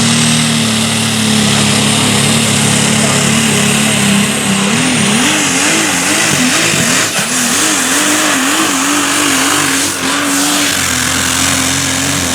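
Super modified four-wheel-drive pulling truck's engine running at full throttle under load, dragging the pulling sled. About a third of the way in the engine pitch starts wavering rapidly up and down, about two to three times a second.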